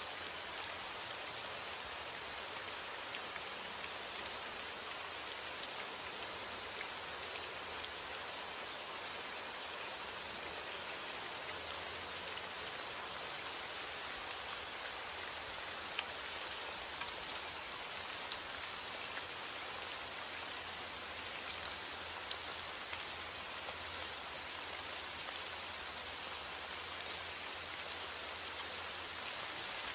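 Steady rainfall, with scattered individual drops ticking on a surface.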